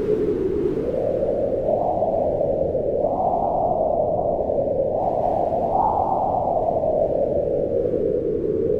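Wind blowing in slow gusts: a low, steady rushing noise whose pitch rises and falls several times, climbing highest about three and six seconds in before easing down again.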